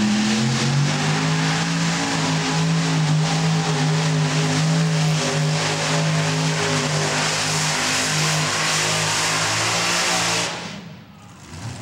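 Modified pulling tractor's engines running at full throttle under the load of the sled. The engine note dips slightly in pitch just after the start, holds steady, then cuts off suddenly about ten and a half seconds in.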